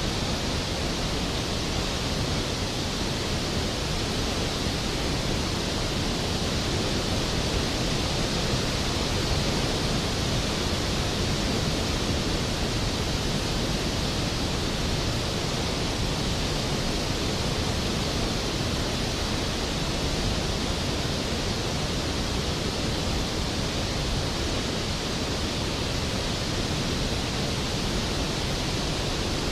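Skógafoss waterfall: a large waterfall's falling water, a loud, steady rushing noise with no change.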